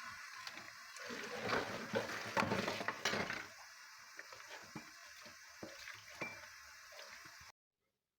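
Splashing water with clinks of dishes, busiest in the first half, then a few scattered light clicks; the sound cuts off abruptly near the end.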